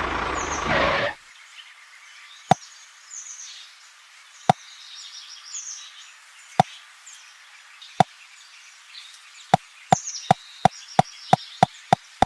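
A loud steady noise cuts off suddenly about a second in. Then come sharp knocks, a few at first about two seconds apart, then speeding up to about three a second near the end, with faint bird chirps behind them.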